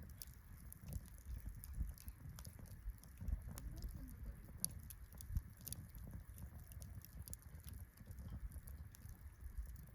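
Wood campfire crackling: frequent small irregular pops, with a few louder snaps near the middle, over a low rumble.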